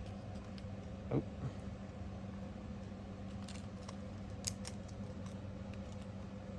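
A few faint, sharp clicks and taps of small metal parts being handled, the clearest about four and a half seconds in, over a steady electrical hum.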